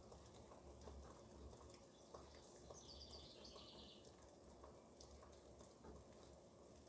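Faint steady rain with scattered light drip ticks, and a bird twittering briefly about three seconds in.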